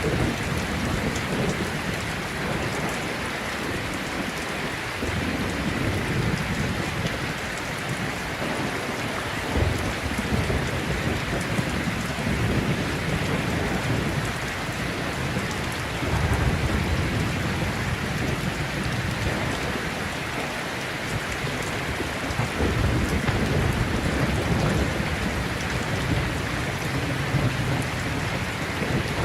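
Heavy rain falling steadily, with rolling thunder rumbling low several times over it.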